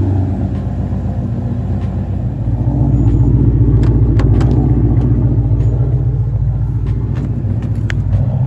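Car engine idling with a deep, steady rumble, having just been started; it grows a little louder about two and a half seconds in, with a few faint clicks over it.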